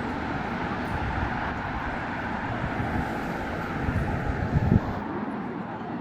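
Outdoor city ambience: a steady low rumble with a wash of background noise, with a few louder low thumps about four to five seconds in.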